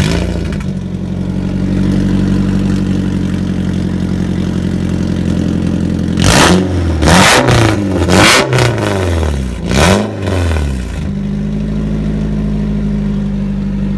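Nissan 240SX engine starting and idling through a newly welded side-exit exhaust, then blipped about five times in quick succession around the middle before settling back to a steady idle.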